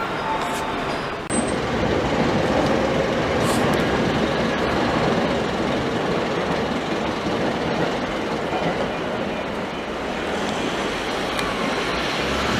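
Commuter train running on the rails, heard from inside the passenger car: a steady rumble of wheels and track noise as it nears the terminal station.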